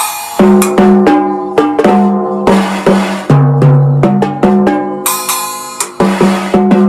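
Music led by a drum kit: snare and bass-drum hits with cymbal crashes, over sustained low pitched notes that change every half second or so.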